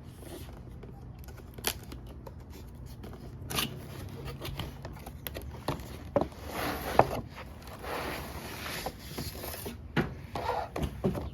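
A cardboard model box and its plastic packaging being handled and opened: scattered clicks and scrapes, with a denser stretch of rustling in the second half.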